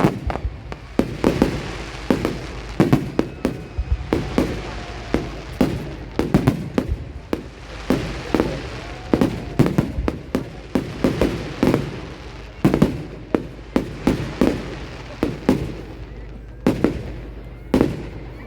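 Aerial fireworks bursting: loud bangs come one after another, about one a second or faster, with crackling in between.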